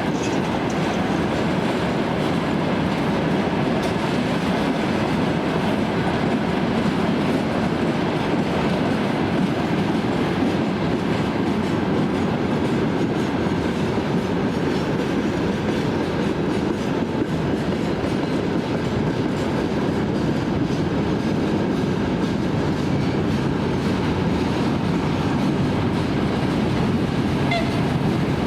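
Train running steadily on the rails, a continuous rumble that stays at an even level.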